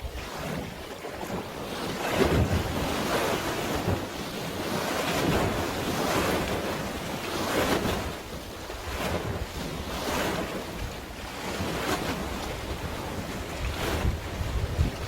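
Sea waves washing in uneven swells every second or two, with wind buffeting the microphone in low rumbling gusts.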